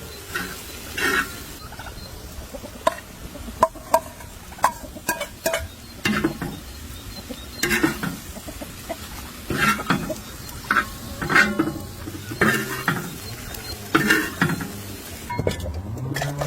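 A utensil stirring and scraping in a cooking pot, with repeated sharp knocks and short squeaky scrapes, while food sizzles.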